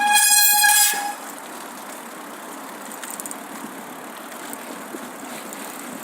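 Railway brakes squealing: a steady high-pitched squeal with overtones and a harsh screech on top, which stops about a second in and leaves a quieter hiss of running rolling stock.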